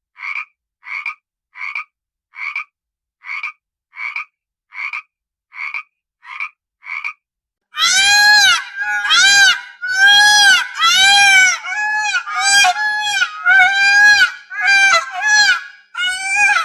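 A row of short, evenly spaced animal calls, about one every 0.7 seconds. Then, from about eight seconds in, a louder run of drawn-out pitched calls that rise and fall, about two a second.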